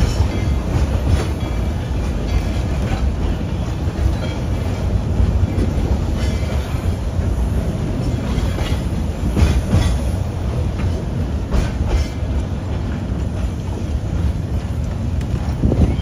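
Narrow-gauge passenger train rolling along the track, heard from aboard one of its cars. There is a steady low rumble of the wheels on the rails, with scattered clicks and knocks.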